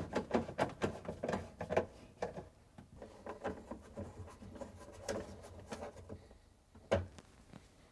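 Screws being driven back into a refrigerator's plastic interior top panel with a screwdriver: a run of small irregular clicks and scraping sounds, with one sharper click near the end.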